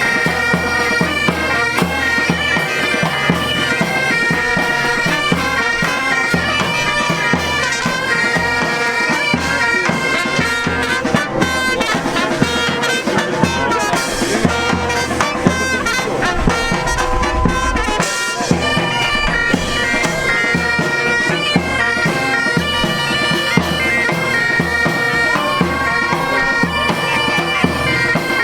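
Pipe band playing bagpipes: a steady drone under a stepping chanter melody, with drums beating along.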